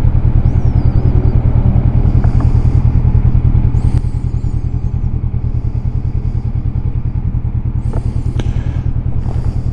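Honda CB500X's parallel-twin engine running steadily, with an even pulsing note that drops a little about four seconds in. A few faint high squeaks are heard over it.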